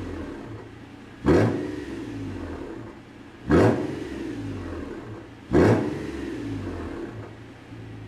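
Nissan Elgrand E51's 3.5-litre V6 revved in three sharp throttle blips about two seconds apart, each dropping back to idle, through a one-off titanium quad-outlet straight-through exhaust with 110 mm tips.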